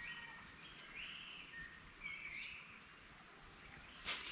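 Birds calling in forest: short chirps and whistled notes, some very high and thin, over faint steady background noise. A brushing rustle starts near the end.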